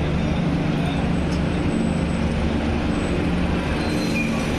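Train running: a steady rumble with a low droning hum throughout.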